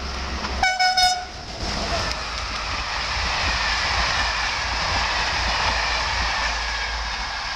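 SNCF Corail passenger train passing close by at speed, its coaches rolling past with a steady rushing noise. It gives a short horn blast about a second in.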